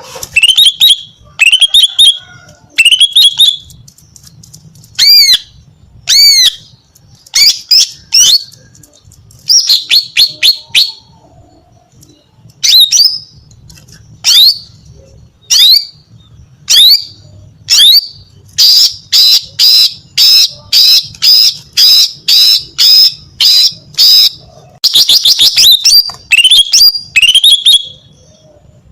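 Female green leafbird (cucak ijo) calling: loud, sharp, down-slurred whistled notes repeated with short gaps, then from about two-thirds through a run of evenly spaced notes about two a second, ending in a quick trill.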